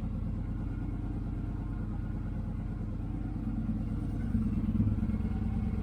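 Motorcycle engine idling steadily, picking up a little about three and a half seconds in.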